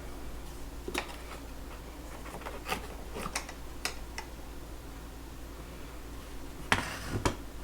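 A few scattered light knocks and clicks, loudest twice near the end, as a level and tools are handled against a wooden stud being fitted, over a steady low hum.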